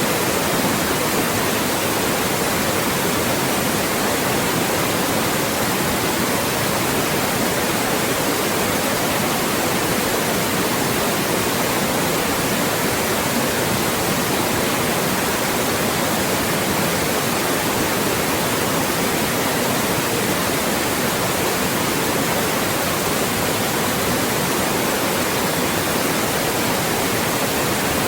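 Loud, steady white noise: an even, unbroken hiss across the whole range, with little at the very lowest pitches.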